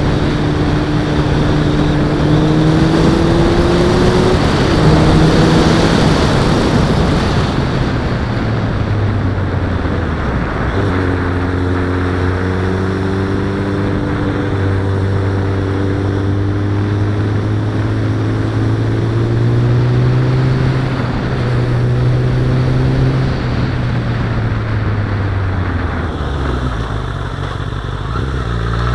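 Suzuki Bandit's inline-four engine heard from on board under a light throttle, with wind and road noise rushing over the microphone. The engine note climbs gently and falls away about eight seconds in, when the wind noise also drops, then climbs slowly again and eases off about twenty-five seconds in. It rises sharply right at the end as the throttle opens.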